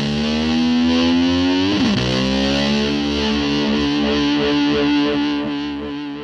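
Distorted electric guitar music at the end of a rock song: the guitar slides up into a held chord twice, and the chord rings on and fades out near the end.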